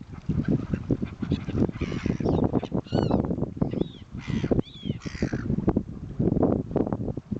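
Birds calling with harsh, arching squawks, the clearest about three, four and a half and five seconds in, over a busy background of short knocks and low rumble.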